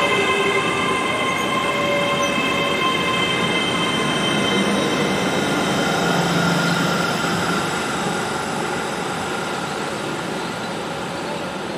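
A GWR Intercity Express Train runs past on the adjacent track and pulls away. Wheel-on-rail noise carries steady high-pitched ringing tones, and the whole sound slowly fades.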